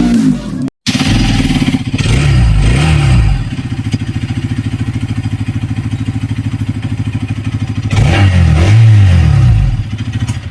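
Bajaj Pulsar RS 200's single-cylinder engine running, blipped twice early on, settling to a steady pulsing idle in the middle, then revved up and down several times near the end.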